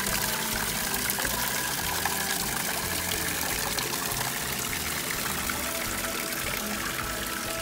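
Steady running, pouring water, with music playing underneath.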